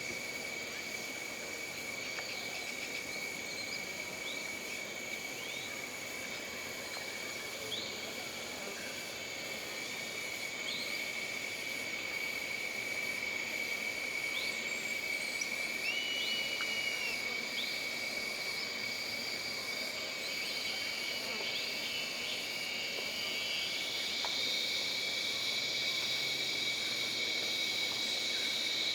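Jungle ambience: insects droning steadily on several high pitches, with short chirping calls scattered throughout. Another high insect drone joins near the end.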